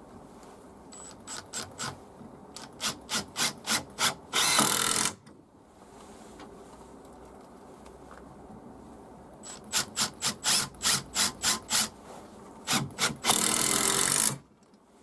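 Makita TD171D cordless impact driver being test-run after repair. The trigger is blipped in short bursts, about three a second, then held for a run of about a second. The whole sequence happens twice.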